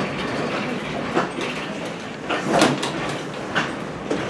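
Passenger railroad coach rolling along the track, a steady rumble broken by several sharp clunks from the running gear.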